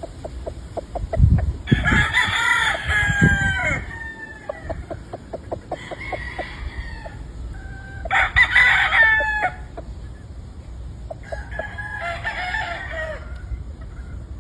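Gamefowl roosters crowing in turn, four crows in all, overlapping with short clucking notes between them. A few low thumps come in the first few seconds.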